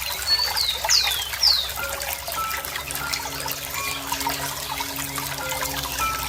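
Water trickling and gurgling steadily. A bird gives a quick run of three or four high whistles, each sliding downward, in the first two seconds.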